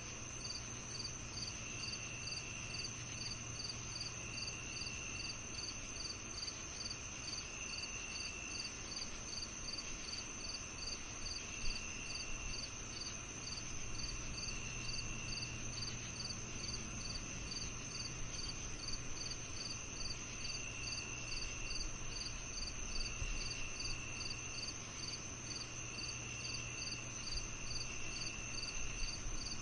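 A chorus of crickets and other night insects. It holds a steady high trill, regular high chirps about twice a second, and a lower trill about a second long that comes and goes every two or three seconds, over a faint low steady hum.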